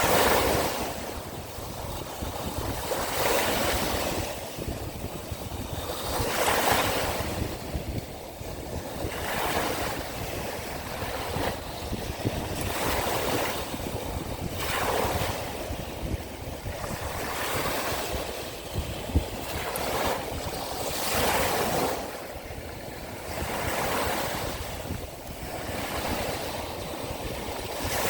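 Sea waves breaking and washing on the shore, a surge of surf every two to three seconds, with wind rumbling on the microphone.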